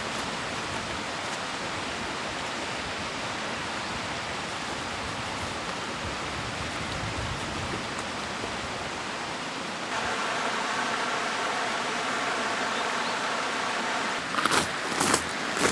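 Valley stream running steadily, an even rush of water. The sound of the water changes about two-thirds of the way through. Near the end come a few sharp knocks.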